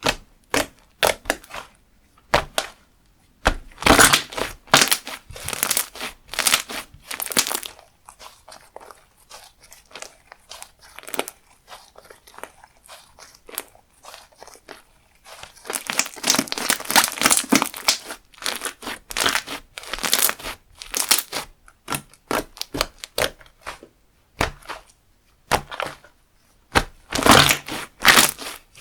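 Slime being squished, poked and stretched by hand, giving clusters of crackling, popping and crinkly clicks. The clusters come in waves, with a quieter stretch of sparse clicks in the middle.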